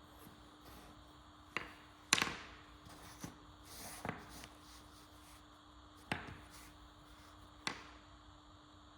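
A handful of separate knocks and clicks, about six spread out, with the loudest about two seconds in, as tools or a workpiece are set down and handled on a workbench. A faint steady hum runs underneath.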